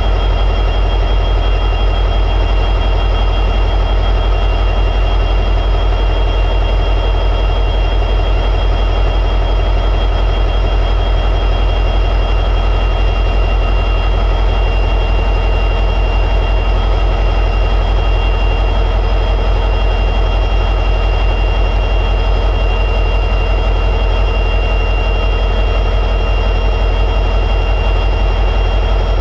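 EMD 16-710G3B two-stroke diesel prime mover of an SD60E locomotive running steadily at high idle: a deep, even rumble with a thin, steady high whine above it.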